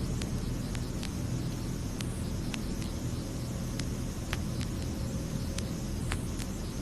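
Steady, even vehicle rumble with a hiss over it and no rise or fall in pitch, like a constant run, scattered with small sharp clicks of record surface crackle.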